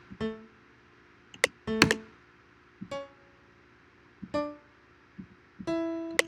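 Software piano playing single notes and small chords in D major, unevenly spaced, as a melody is tried out. Sharp clicks sound alongside several of the notes.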